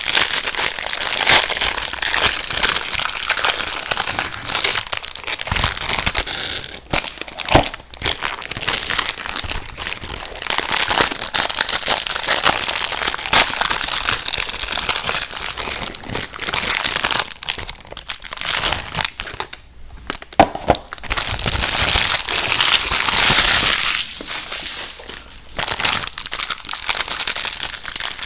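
Close-miked eating of crunchy cookies and candy: dense crinkly crunching that goes on almost continuously, with a few short pauses.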